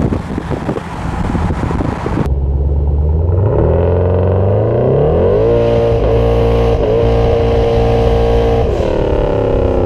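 Rushing wind and road noise as the car goes by for about two seconds, then, after a sudden cut, the Nelson Racing Engines twin-turbo 427 cubic-inch LS V8 in a Camaro SS accelerating hard. Its note climbs for about two seconds, holds at a steady high rpm for about three, then drops away as the throttle comes off near the end.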